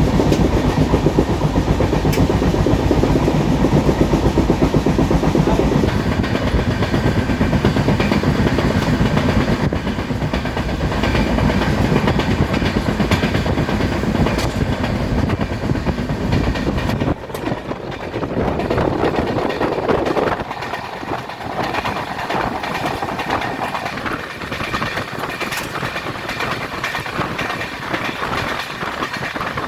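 Passenger train running on the rails, a steady loud rumble with rhythmic wheel clatter. About 17 seconds in it suddenly turns quieter and thinner.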